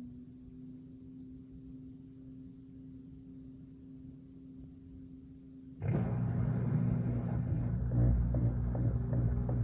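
Washing machine running with a low steady motor hum. About six seconds in, it jumps abruptly into a much louder low rumble with a quick repeated pattern, as the machine starts a more vigorous phase of its cycle.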